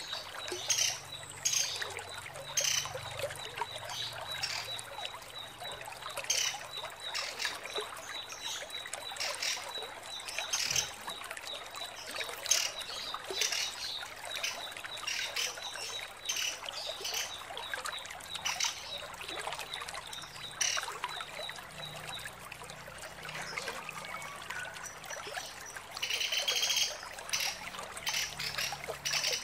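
Female pelatuk sampit calling: repeated sharp chips and a fast ticking chatter that stops about three quarters of the way through, then a couple of louder calls near the end, over a steady trickle of water.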